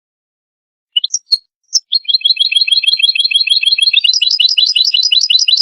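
European goldfinch twittering: a few short high chirps about a second in, then a fast, even trill of repeated notes, about eight a second, that shifts higher in pitch about four seconds in.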